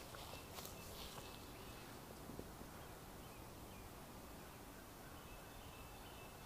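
Quiet outdoor ambience with faint, distant bird chirps, a series of short high notes near the start and again near the end; a few light rustles in the first second or so.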